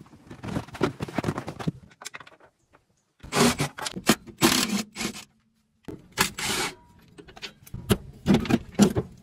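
Four bursts of metallic rattling and scraping from tools at work on a car's rear suspension, each about a second long with short pauses between.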